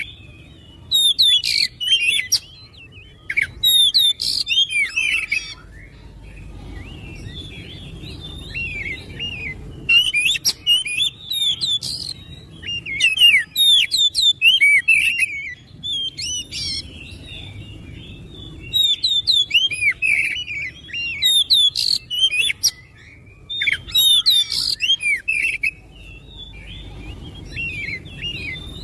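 Oriental magpie-robin (kacer) singing: bursts of rapid, varied whistled phrases lasting a few seconds each, separated by pauses, over faint low background noise.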